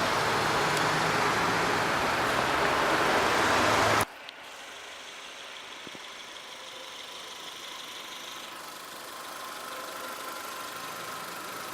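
A loud, even rushing noise for about four seconds cuts off abruptly. The 2013 TagAZ Aquila's 1.6-litre inline-four then idles steadily and quietly, with a faint steady hum.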